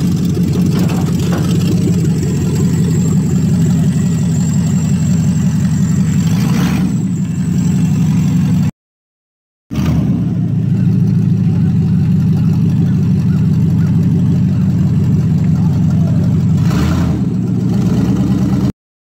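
Bravada's 5.7 Vortec V8 running loudly through its exhaust at a steady low idle, with a short rev about six and a half seconds in and again near the end. The sound cuts out for about a second around nine seconds in.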